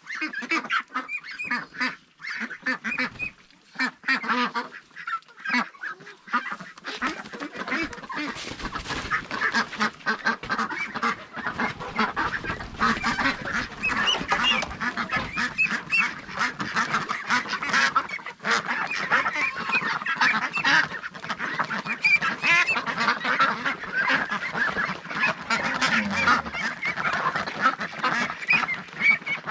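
A flock of ducks calling: a few separate calls at first, then from about seven seconds in a dense, continuous chorus of many overlapping calls.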